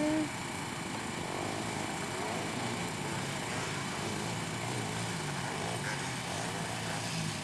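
Engines of racing ATVs and three-wheelers running out on the motocross track: a steady drone whose pitch wavers as the riders work the throttle.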